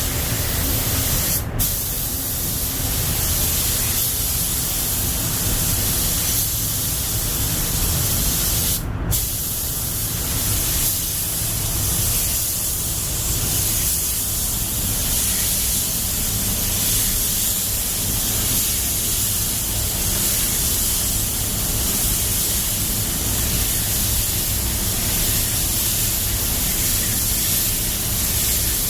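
Air-fed paint spray gun hissing steadily over a low hum; the spray breaks off for a moment about a second and a half in and again around nine seconds.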